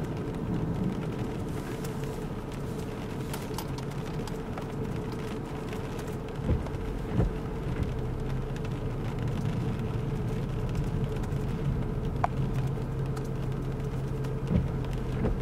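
Car engine running steadily, heard from inside the cabin as a low hum, with a couple of faint knocks about halfway through.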